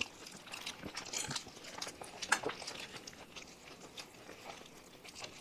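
Someone chewing food, with scattered soft clicks and crunches.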